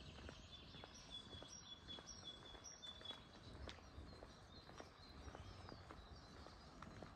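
Near silence outdoors: a small bird calling faintly with short high chirps, repeated every second or so, over soft footsteps.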